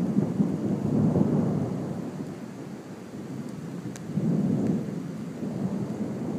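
Thunder rumbling from a thunderstorm, swelling about a second in and again around four seconds in, over a steady hiss.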